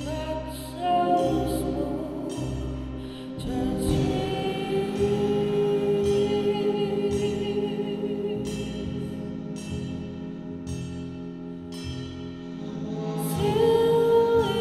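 Live band music with long held sung notes wavering in vibrato over sustained chords, a low bass pulse in the first few seconds, and a swell near the end.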